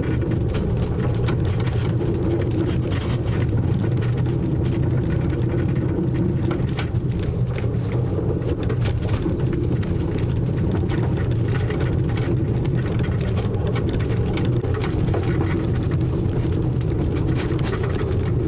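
Narrow-gauge tourist train running along the line, heard on board: a steady rumble with a constant light clatter and rattle of the carriage on the track.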